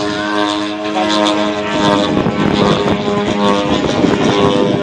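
Propeller-driven twin-cylinder two-stroke gasoline engine of a 35% scale Extra 300 RC aerobatic plane running, holding a steady pitch and then dropping lower and rougher about two seconds in.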